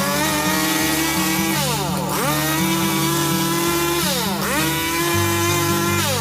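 Chainsaw running at high revs, its pitch sagging and climbing back three times, over background music with a stepping bass line.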